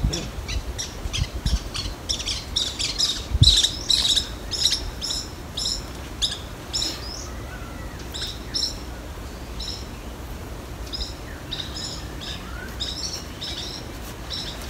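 Small bird chirping, a quick series of short high notes repeated several times a second, sparser in the second half. A dull thump about three and a half seconds in.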